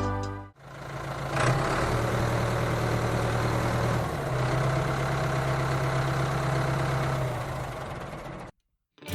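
Engine idling steadily, with a low hum that steps up slightly in pitch about four seconds in; it starts about half a second in and cuts off abruptly about a second before the end.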